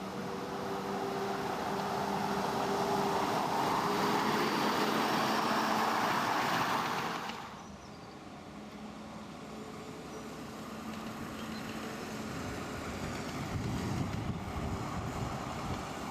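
7¼ inch gauge miniature train running, with a steady hum and a loud hiss that cuts off suddenly about halfway through, then a quieter running sound with some low rumble.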